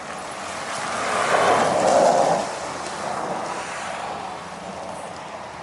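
A vehicle passing by, a rising and falling road hiss that peaks about two seconds in, over a steady outdoor background.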